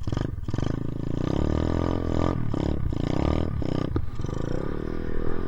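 Dirt bike engine revving, its pitch rising and falling several times, with a few brief dips in the sound.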